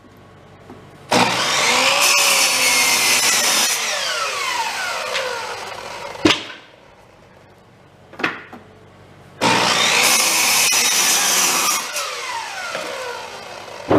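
Corded electric saw of about 1700 watts switched on twice, for about five and then four seconds; each time the motor comes up to speed at once and, once released, whines down in falling pitch. Sharp knocks come after each run.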